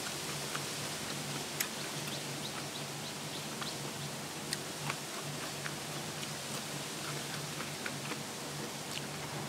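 Crunchy food being chewed close to the microphone: irregular crisp crunches and clicks over a steady low hum.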